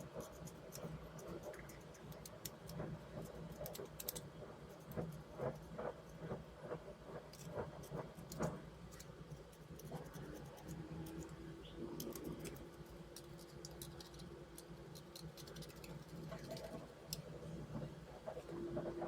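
Scattered light clicks, taps and scratches over a faint steady hum, with a faint steady tone that comes in about ten seconds in.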